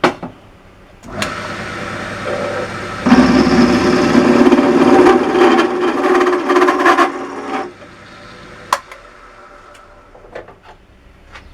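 A machine motor starts about a second in, then gets much louder from about three seconds as the cutter bites into a silver steel shaft to deepen a keyway. The cut ends and the motor stops a little after seven seconds, with a single click later on.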